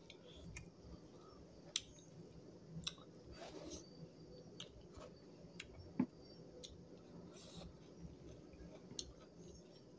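Close-up eating sounds of a man eating rice and goat meat curry with his hand: quiet chewing with scattered sharp mouth clicks and smacks, the loudest one about six seconds in.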